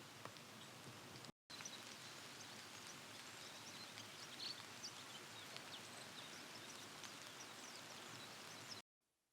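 Faint outdoor ambience: a steady low hiss with scattered soft, high, short ticks, clustered about four to five seconds in. The sound drops out to silence briefly about a second and a half in and again near the end.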